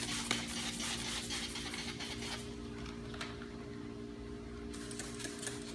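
Rustling, rubbing noise of hands working wet paint protection film on a car hood, dense for the first couple of seconds and then fainter with a few short scrapes, over a steady hum.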